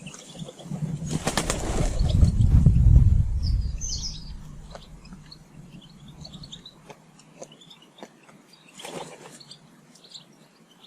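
A bird's wings flapping loudly about a second in, with a weaker flurry of wingbeats near the end, while small birds give short high chirps.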